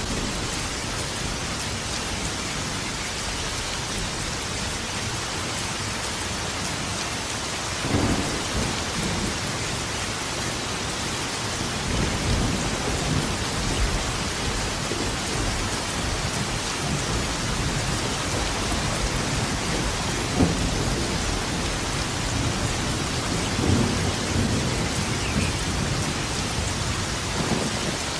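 Steady heavy rain hissing on surfaces, with rolls of thunder rumbling through it several times; sharp cracks at about 8 s, 20 s and 24 s in.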